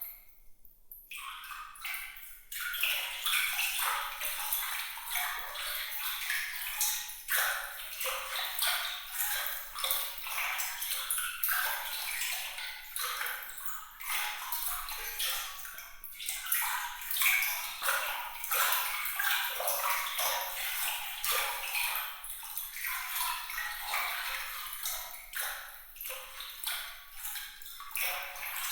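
Water trickling and splashing in a dense patter of small bright drips and plinks, with almost nothing low in pitch and a brief lull just after the start.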